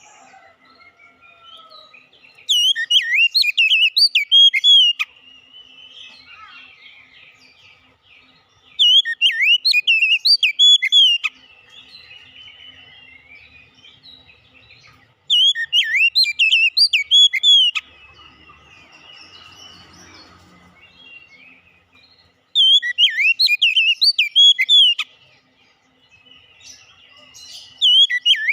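Oriental magpie-robin singing: loud, fast whistled phrases of about two and a half seconds, coming back every six to seven seconds, with softer twittering between them.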